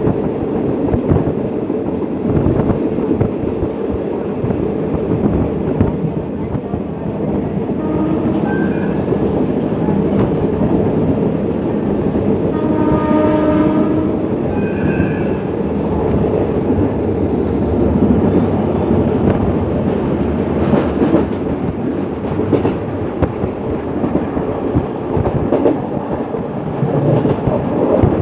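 Passenger train running, wheels clacking over the rail joints, heard from an open carriage window. About halfway through, the Hitachi diesel-electric locomotive sounds its horn once for about a second and a half.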